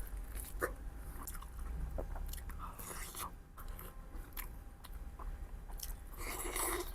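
A person biting and chewing a masala pork chop: scattered short mouth clicks, with a denser run of eating sounds near the end.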